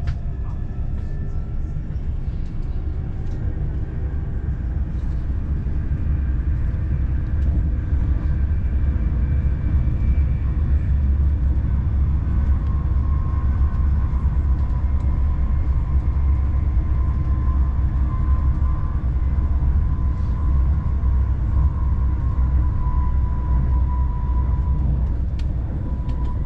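Passenger train running: a steady low rumble, joined about halfway through by a faint steady whine.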